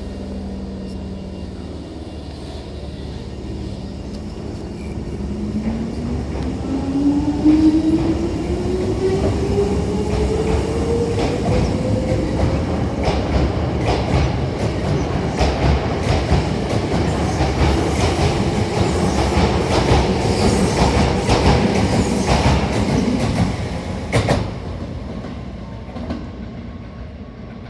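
Hankyu 6000 series electric train pulling away. Its traction motors give a whine that rises steadily in pitch for about eight seconds as it gathers speed. Then comes a steady rumble of wheels with many rail-joint clicks as the cars pass, easing off near the end.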